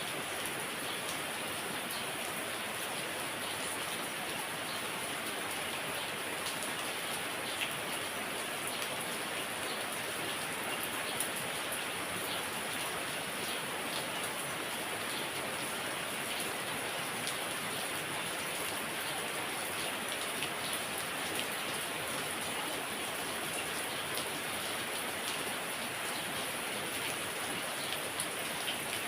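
Heavy rain falling steadily, with a few individual drops ticking out above the downpour.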